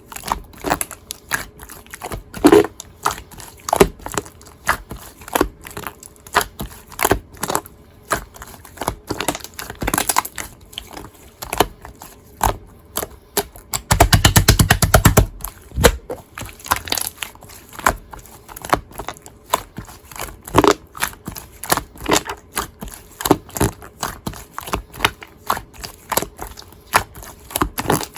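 Scoop ice cream slime being squished and pressed by hand, giving an irregular stream of sticky clicks and pops, with a quick burst of rapid crackling about halfway through.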